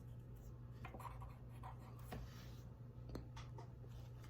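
Faint scratching of drawing on paper: a few short strokes over a low steady hum.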